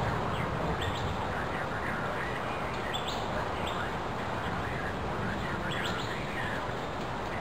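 Birds calling with short rising chirps every second or two over a steady hiss, the rush of the thunderstorm.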